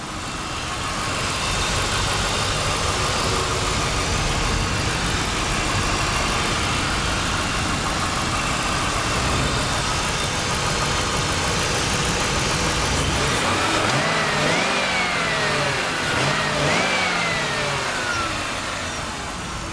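1995 Ford Thunderbird's 4.6-liter V8 running steadily with the hood open. Near the end it rises and falls in pitch twice, as in two short revs.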